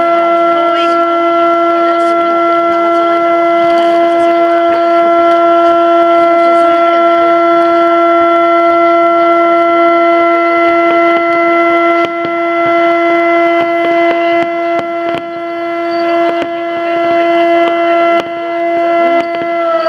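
A long siren-like tone holding one pitch for about twenty seconds, then dropping in pitch as it dies away near the end. Short pops and crackles break in during the second half.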